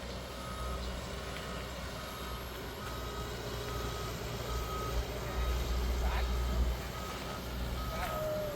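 Reversing alarm on heavy machinery, beeping at a single pitch at even intervals, over the low rumble of a diesel engine.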